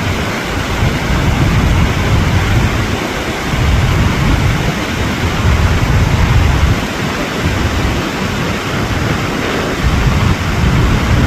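Iguazú Falls' water crashing down at close range: a loud, steady rush, with uneven low buffeting of wind and spray on the microphone.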